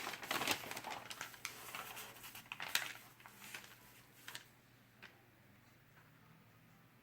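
Paper rustling and handling clicks, like pages of a printed store circular being turned and flattened. The rustling is busiest in the first four seconds or so and then dies away.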